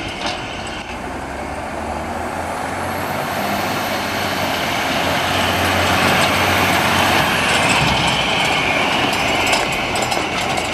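1990 M931A2 military semi truck's turbocharged diesel engine running, swelling in level over the first several seconds and easing off near the end, with a thin high whine above it through the middle.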